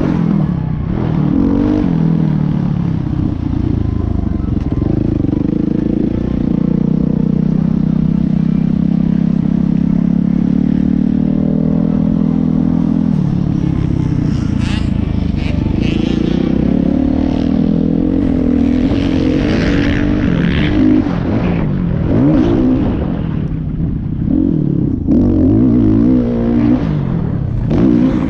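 Motocross dirt bike engines running hard, their pitch rising and falling with throttle and gear changes. The pitch holds steady for several seconds in the middle.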